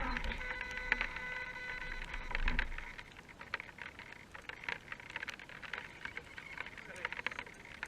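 Electric motor and gearbox of an RC rock crawler whining steadily for the first two and a half seconds or so, then dropping away, leaving a scatter of light ticks and taps.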